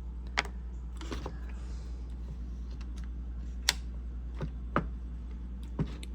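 Scattered sharp clicks and knocks, about six of them at uneven intervals, from small hard parts being handled, over a steady low hum.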